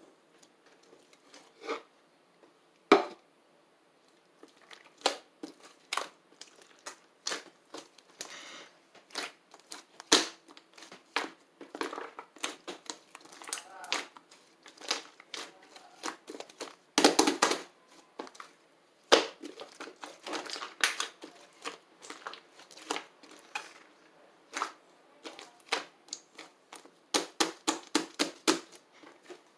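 Slime being squeezed and poked by hand, making an irregular string of sharp pops and clicks, with a quick run of them near the end.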